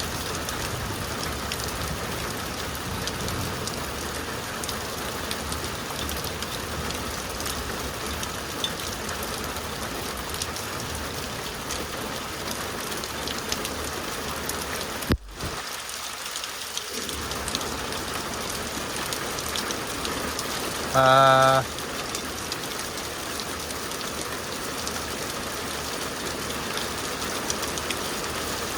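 Heavy rain coming down hard, a dense, even hiss. About three-quarters of the way through, a short, loud, steady hum-like tone sounds for under a second.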